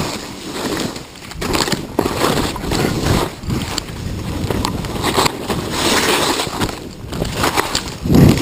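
Skis sliding and scraping over spring snow during a traverse, in surging swishes about a second apart, with a heavier low thud near the end.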